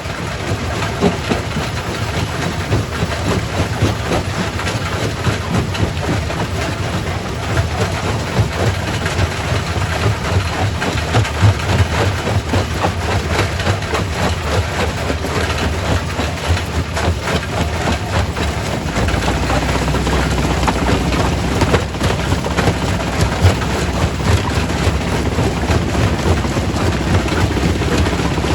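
Primary rock crusher running: a steady heavy engine drone under a dense, irregular clatter of rock being crushed. About 19 seconds in, a deeper low rumble grows stronger.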